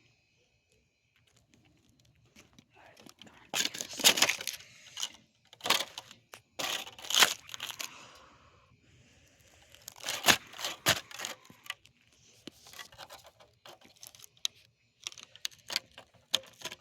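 Ceiling fan being smashed against ice and packed snow: several clusters of sharp cracking and crunching impacts, separated by quieter gaps.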